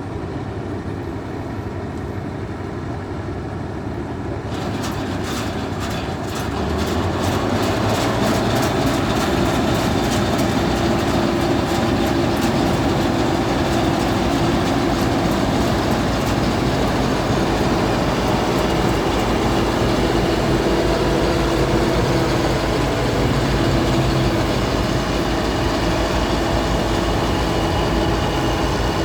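Bizon Z056 combine harvester running, its diesel engine and machinery building up and then holding a steady, loud run from about seven seconds in. A fast clattering comes in about four seconds in and fades out over the next several seconds.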